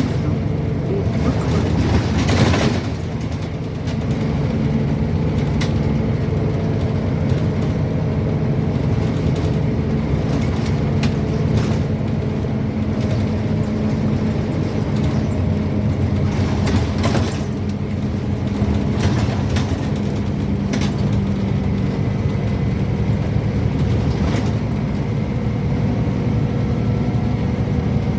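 Scania N230UB OmniCity bus's five-cylinder diesel engine running steadily on the move, heard from inside the bus. A short hiss comes about two seconds in, and there are occasional knocks and rattles.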